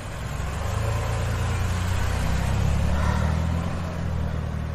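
Car engine running as the car drives by: a low rumble that swells to a peak midway and then fades.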